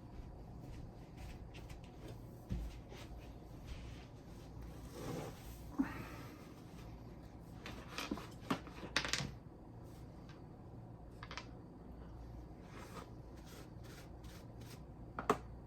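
Scattered light knocks and clicks of things being handled while spilled beer is cleaned up, with a brief rustle near the middle, a cluster of clicks about eight to nine seconds in and a sharp knock near the end, over a low steady room hum.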